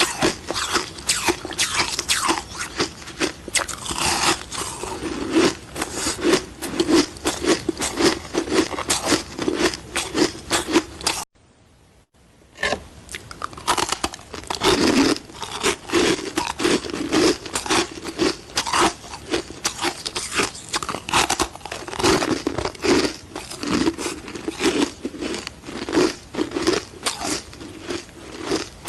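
Sticks of ice being bitten and chewed, a dense run of loud crunches. The crunching stops for about a second a little over a third of the way in, then resumes.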